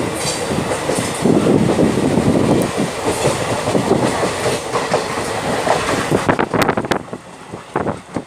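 Passenger train running along the track, heard from on board: a loud steady rumble of wheels on rail. From about six seconds in the rumble drops and a quick run of sharp clacks over rail joints comes through.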